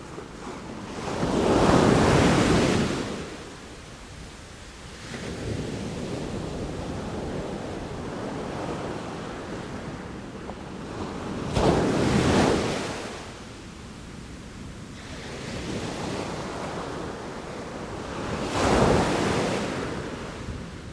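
Sea waves breaking in a steady rushing wash. Three loud surges come about a second in, near the middle and near the end, with a softer swell between the first two.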